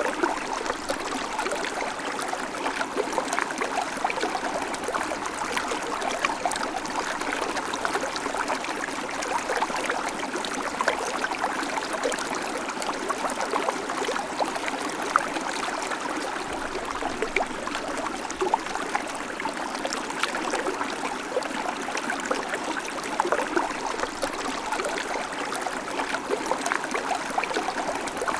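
Babbling creek: shallow water running over stones, a steady splashing trickle full of small quick plinks.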